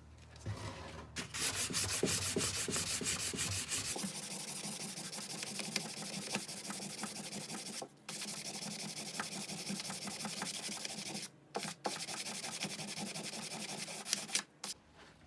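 Sanding: a scratchy rubbing of quick, repeated strokes that pauses briefly twice and stops near the end.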